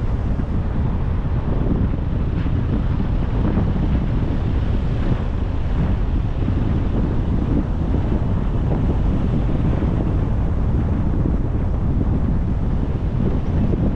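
Wind buffeting the microphone of a car-mounted camera, mixed with the car's road rumble while driving. It is a steady, dull roar with no let-up.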